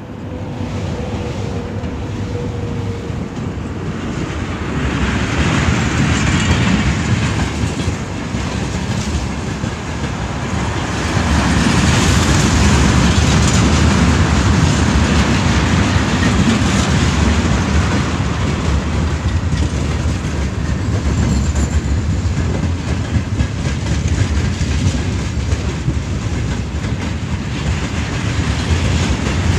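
Freight train of tank cars and hopper wagons rolling past close by behind a VL80t electric locomotive: steady rumble of wheels clattering over the rails, growing louder from about a third of the way in.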